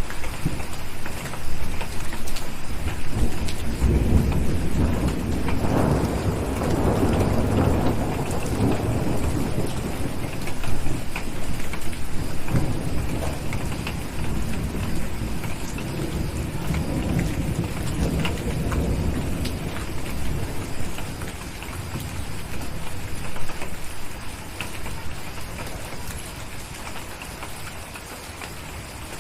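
Steady rain with a long rolling rumble of thunder that swells about four seconds in and dies away over several seconds, then a weaker rumble later on. The whole eases off somewhat near the end.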